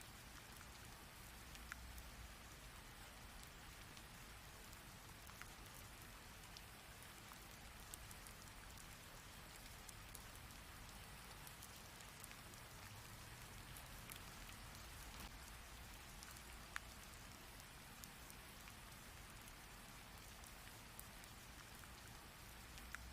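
Rain falling steadily and softly, with scattered single drops ticking sharply.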